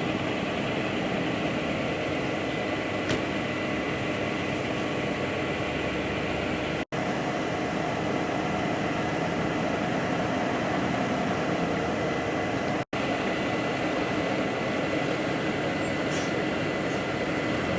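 Steady machine-like noise with a faint constant whine, broken twice by an instant of silence.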